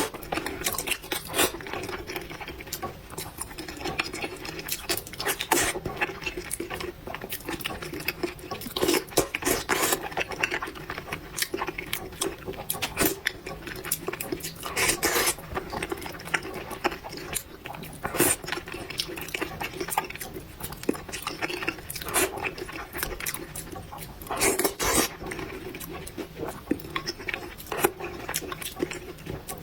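Close-miked eating of spicy noodles: wet chewing and slurping, with irregular clicks of utensils against the dish.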